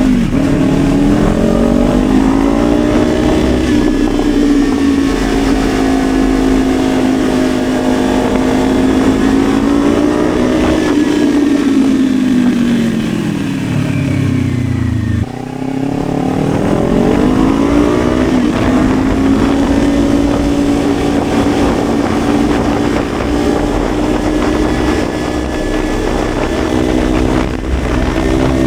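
Dirt bike under way, its motor holding a steady pitch, then dropping away as it slows almost to a stop about fifteen seconds in, and rising again as it speeds back up to a steady cruise.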